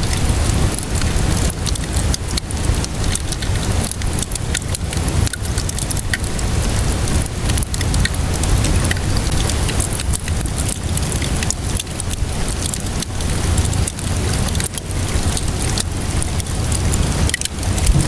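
Wood fire crackling with many small pops, over a steady hiss of rainfall.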